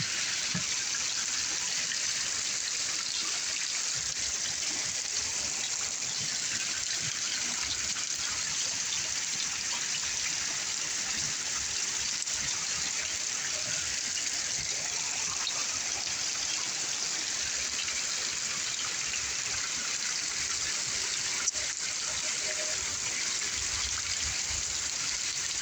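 Heavy rain pouring down with water gushing, a steady hiss that holds at one level throughout. A single brief click about 21 seconds in.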